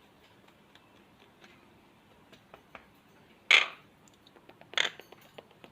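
A pet parrot's beak working at a balsa wood chew block: light scattered clicks and taps, with two short, sharp, louder sounds about three and a half and five seconds in.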